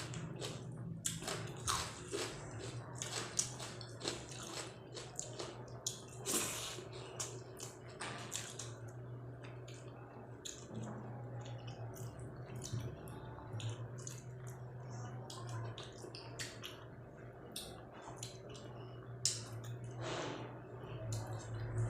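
Close-miked wet chewing and mouth smacking of a person eating rice with dal and vegetable curry, many short sticky clicks throughout. A steady low hum runs underneath.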